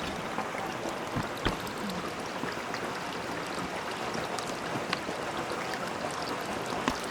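Steady sound of flowing water, like a stream running, with a few faint light clicks or knocks.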